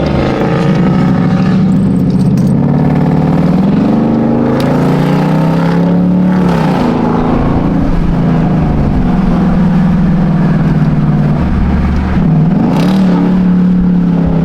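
Car engine pulling hard through the gears, its pitch climbing and then dropping at upshifts, once about six seconds in and again near twelve seconds.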